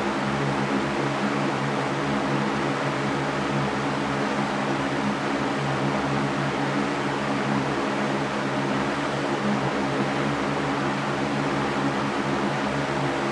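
Electric fan running steadily, a continuous airy rush with a low motor hum underneath.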